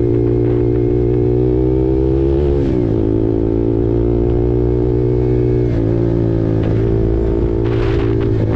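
KTM RC 390's single-cylinder engine running through an SC-Project exhaust at steady riding revs. About two and a half seconds in, the note drops in pitch like a gear change, then holds steady, and it changes again near six seconds.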